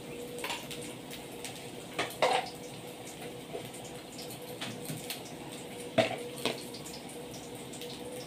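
Spice masala sizzling steadily in oil in a steel kadai, with a few sharp clinks of metal utensils, the loudest about two and six seconds in.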